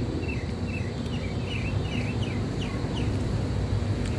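A songbird calling: a quick run of about ten short chirps, each dropping in pitch, lasting about three seconds, over a steady low rumble of background noise.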